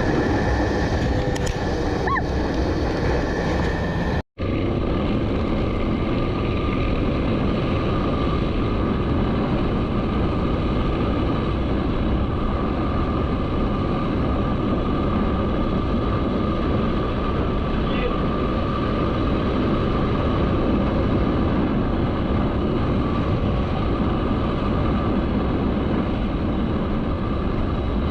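Motorcycle on the move: steady engine and wind noise on the rider's camera microphone, with a brief dropout about four seconds in, after which the sound is duller.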